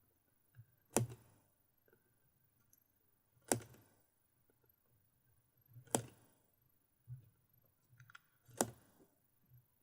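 Sharp clicks or taps from handling the packaging of an unboxed GoPro Hero 4 Silver camera. Four loud ones come about two and a half seconds apart, with fainter knocks between them.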